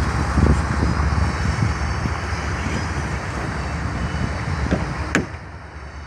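Steady rumble of a passing grain hopper freight train and road traffic, with wind gusting on the microphone. A sharp click about five seconds in, after which the noise drops away.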